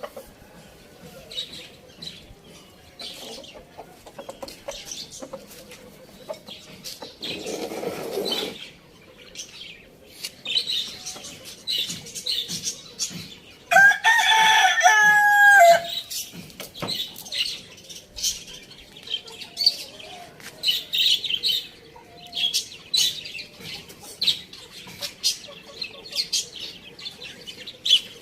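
A rooster crows once near the middle, a loud call of about two seconds that slides down at the end. Earlier comes a short burst of wing flapping, and high bird chirps come and go throughout.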